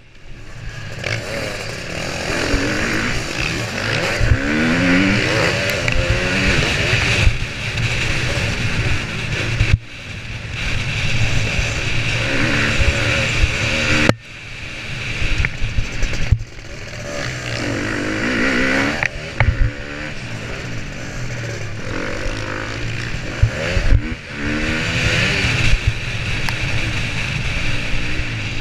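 Motocross bike engine revving up and dropping back over and over as it is ridden hard, with the throttle shut sharply for a moment several times.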